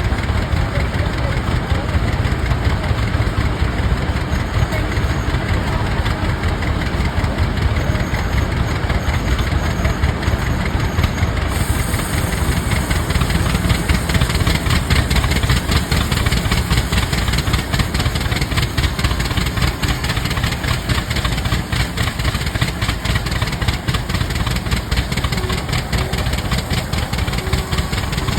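Two Rumely OilPull tractors' big two-cylinder engines running steadily together while belt-driving a sawmill. About eleven seconds in, a higher hiss joins them.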